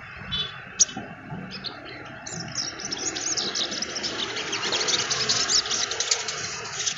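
Sunbird singing: a few separate high chirps, then from about two seconds in a fast, unbroken run of high twittering notes.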